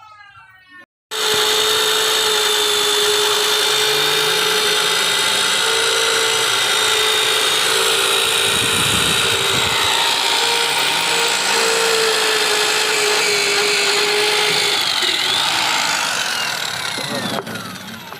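Electric drill running under load, boring a hole through the steel side rail of a Hino truck chassis. The motor runs steadily, then winds down with a falling pitch near the end.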